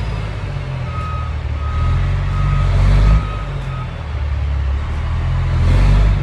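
Gravel delivery truck stuck in a rut, its engine revving twice in a low rumble as it tries to back out, while its reversing alarm beeps five times.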